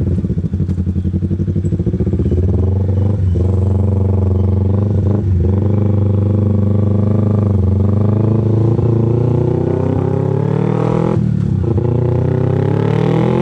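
Kawasaki Ninja 250 carbureted parallel-twin engine with an aftermarket Austin Racing exhaust, pulling through the gears while riding. The engine note climbs in pitch and drops briefly at each gear change, about 3, 5, 7.5 and 11 seconds in.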